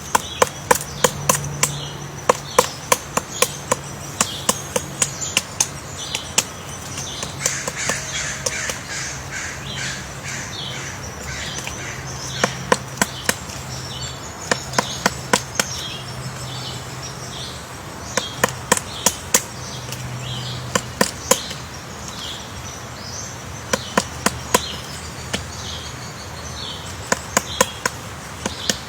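Birds calling in short repeated notes, over a run of loud, sharp clicks or taps that come in quick clusters.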